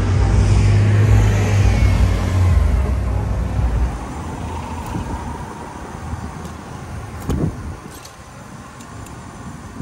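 A car passing close by, its engine rumble and tyre noise loud for the first few seconds and then falling away. A short thump about seven seconds in.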